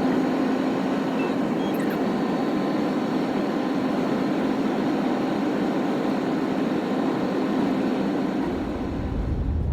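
Steady engine and road noise inside the cab of a semi truck under way on the highway. A deeper low rumble comes in near the end.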